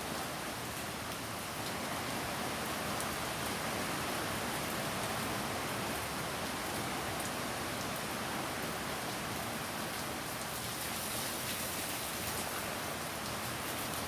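Heavy typhoon rain falling steadily, a dense even hiss with scattered sharp drop hits.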